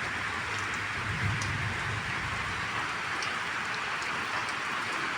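Steady rainfall, an even hiss with a few sharp drip ticks.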